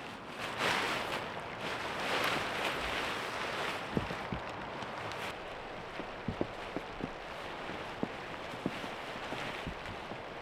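Handling of tent gear during pitching: two bursts of rustling in the first few seconds, then a run of scattered light clicks and knocks.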